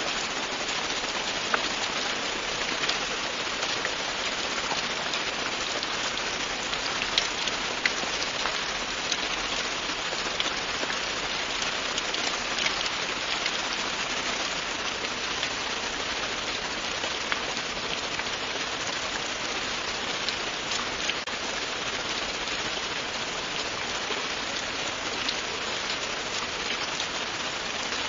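Steady, continuous rain falling on a surface, a dense even hiss with scattered individual drops ticking through it.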